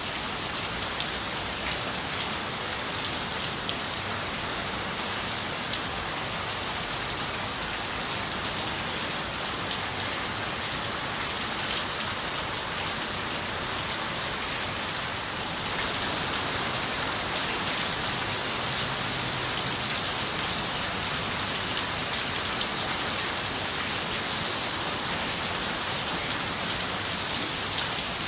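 Steady rain with raindrops ticking against a window pane, growing a little heavier about halfway through.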